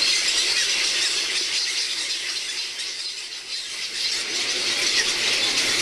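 A heron breeding colony: many overlapping high-pitched squealing calls, a continuous chatter with no single call standing out.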